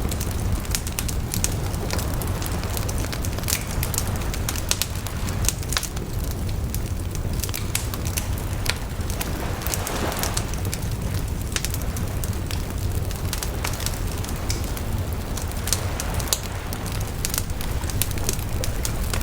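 Wood fire burning with a steady low rumble and many sharp crackles and pops.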